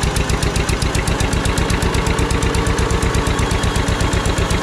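John Deere 630's two-cylinder engine running steadily just after starting, with an even, rapid popping beat of several pulses a second.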